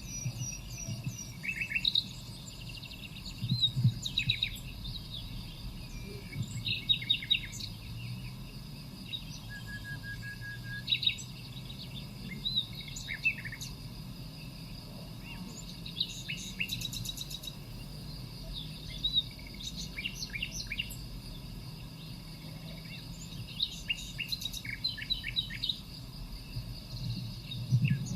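Birds chirping and singing: many short calls and quick trills in scattered clusters, over a low steady hum.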